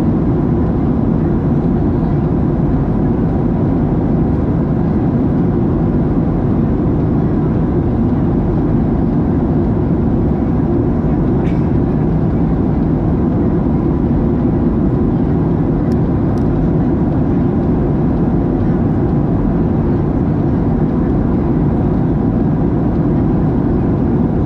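Steady cabin noise inside a Boeing 737-700 with its CFM56-7B turbofans running: an even, deep rumble of engines and airflow with a faint steady hum. Two faint clicks come about two-thirds of the way in.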